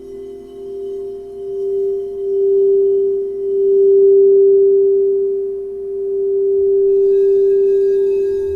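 Singing bowl sounding one sustained, pure tone that swells and fades in slow waves. About seven seconds in, a fresh set of higher ringing overtones joins it.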